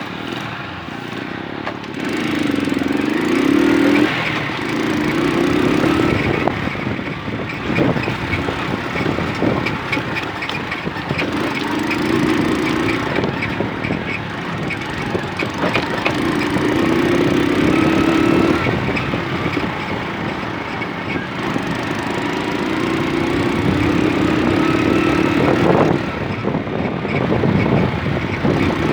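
Small moped engine running under way, its pitch rising and falling repeatedly as it speeds up and eases off, over a steady rushing noise.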